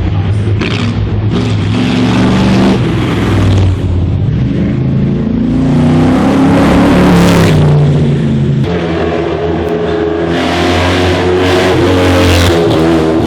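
Historic race car engine accelerating hard at full throttle, its pitch rising. About two-thirds of the way through the sound changes abruptly, then climbs again.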